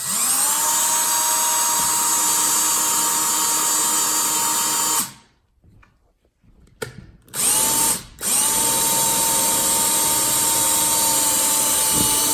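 Electric drill boring a pilot hole down through the floor. It spins up and runs steadily for about five seconds, stops, gives two short bursts, then runs steadily again from about two-thirds of the way in.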